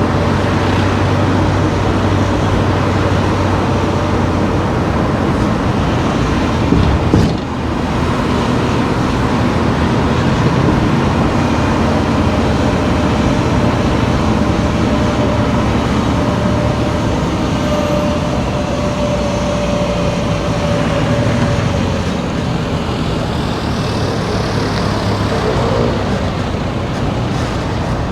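Car driving along town streets: steady engine and tyre noise, with a brief sharp dip in level about seven seconds in.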